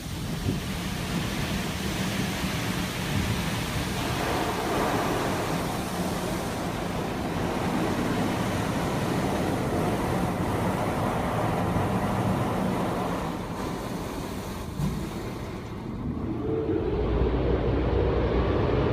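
Automatic car wash spraying water over the car, a steady rushing wash noise heard from inside the cabin. About seventeen seconds in, a low steady drone starts.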